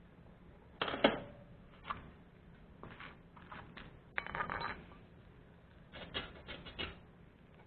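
Scattered clicks and clinks of hard objects being handled, irregular, with the sharpest knock about a second in and small clusters later.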